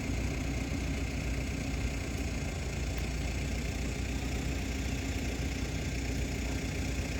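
Boat engine running steadily at idle: an even low hum with a constant drone.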